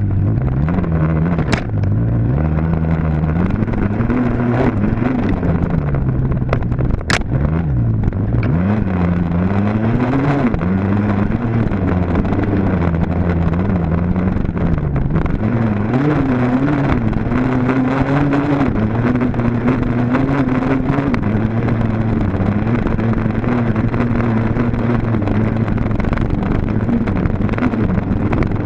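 Dirt bike engine being ridden hard, its pitch rising and falling every second or two as the throttle opens and closes and the gears change, with a steadier stretch late on. Wind noise runs under it, and there are two sharp clicks in the first several seconds.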